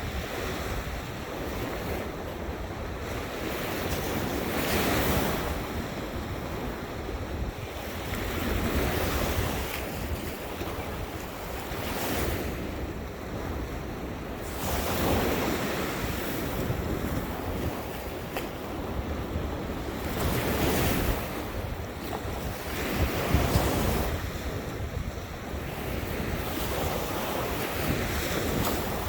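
Ocean surf breaking on a beach, a wave washing in every few seconds, with steady wind rumbling on the microphone underneath.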